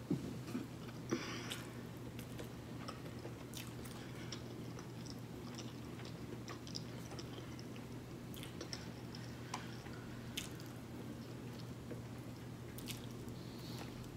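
A person chewing and biting pieces of pork chop meat pulled off the bone, with scattered soft smacks and clicks. A steady low hum runs underneath.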